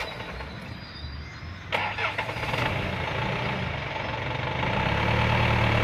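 Dump truck's diesel engine running and building steadily in level. There is a sharp clunk a little under two seconds in.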